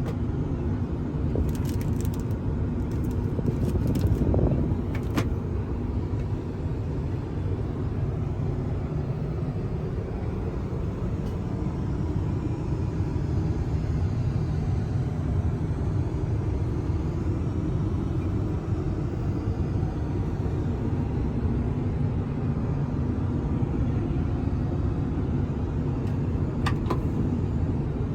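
Steady low rumble of an Airbus A380 airliner heard from inside the cabin, with a few faint clicks and knocks near the start and again near the end.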